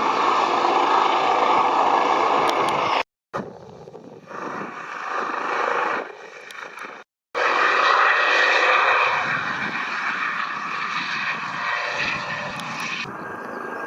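Airbus Helicopters EC135P3 twin-turbine helicopter running, a steady rush of turbine and rotor noise. The sound breaks off abruptly twice, about three and seven seconds in, and is quieter in the stretch between the breaks.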